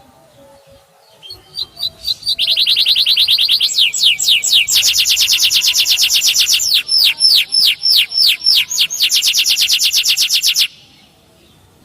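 Canary singing: a few chirps, then a long, loud, fast trill of repeated sweeping notes in several phrases that change pitch, cutting off about a second before the end.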